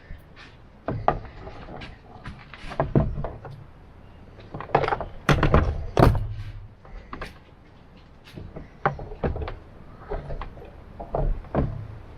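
Irregular knocks, thuds and clatter as the hoses and fittings of a portable camp water heater are handled and untangled.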